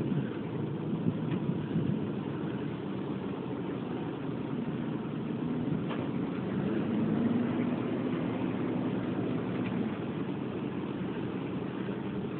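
1978 GMC 35 dump truck's engine running steadily, with a steady hum that grows a little louder for a few seconds past the middle.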